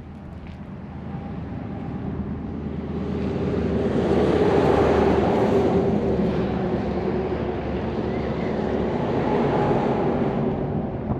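A motor vehicle's engine running close by, growing louder over the first few seconds as it comes near, then holding fairly steady before easing off near the end.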